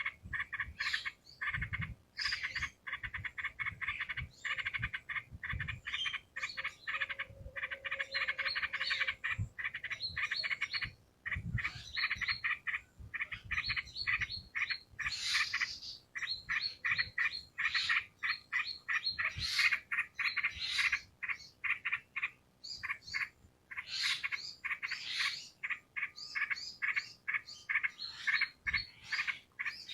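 Yellow-vented bulbuls (trucukan) singing and chattering: dense runs of rapid, repeated bubbly notes coming in bursts with short gaps.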